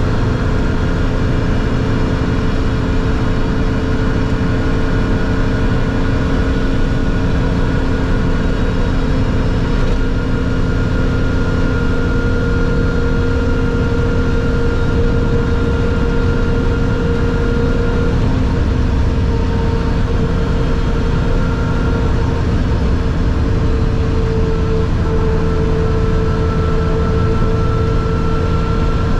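BMW Compact M3 rally car's engine running at a steady, nearly unchanging pitch, heard from inside the cabin over a loud rumble of road and tyre noise.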